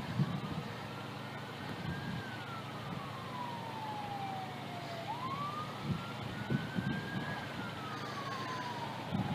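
Emergency vehicle siren on a slow wail. Its pitch rises and falls twice over a steady background hiss.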